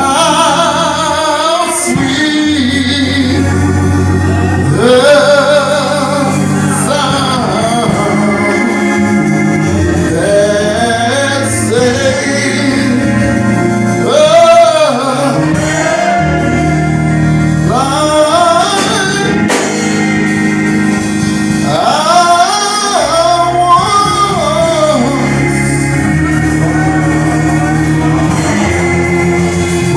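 Gospel singing with organ accompaniment: voices holding sung melody lines over sustained organ chords.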